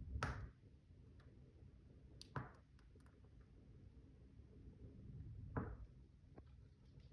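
Wood fire in a fireplace crackling faintly over a low steady rumble, with three sharper pops spaced a few seconds apart and a few tiny ticks between them.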